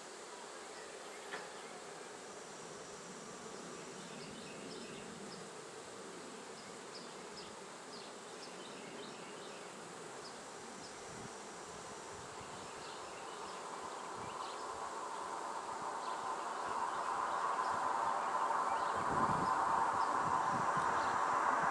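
Honey bees buzzing around an open hive, a steady hum that grows much louder from about halfway through.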